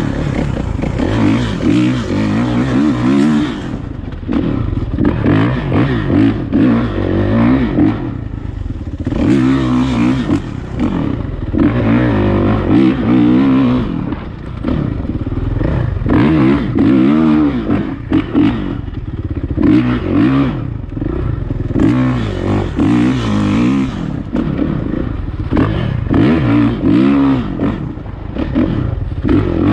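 Dirt bike engine revving up and down over and over, its pitch rising and falling every second or two, with some clattering.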